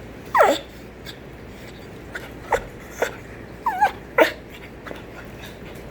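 Frightened dog whimpering and whining in about five short, high cries. The first slides down in pitch and another wavers up and down. The dog is anxious over the rain and thunder.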